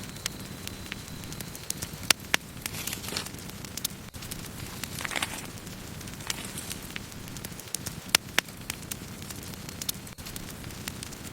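Wood campfire crackling: sharp pops scattered over the low, steady rush of the flames, the loudest in pairs about two seconds in and about eight seconds in. Two brief hisses rise from the fire around three and five seconds in.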